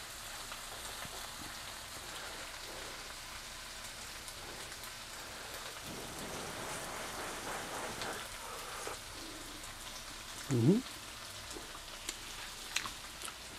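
Onions and garlic sizzling steadily in a frying pan, a fine crackling hiss. About ten seconds in comes a brief rising vocal sound from the cook.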